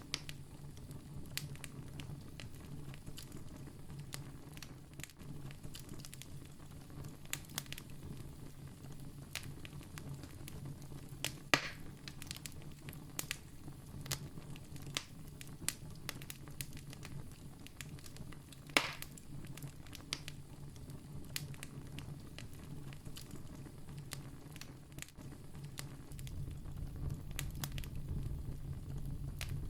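Wood campfire burning steadily with a low hiss and scattered sharp crackles and pops, two of them louder, at about 11 and 19 seconds in. The low rumble of the flames grows somewhat stronger near the end.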